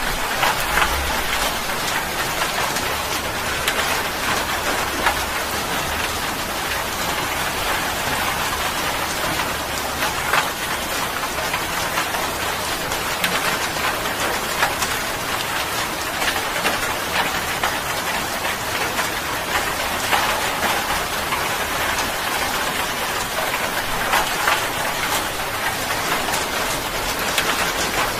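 Steady rain falling, an even hiss with single nearby drops landing as sharp clicks scattered throughout.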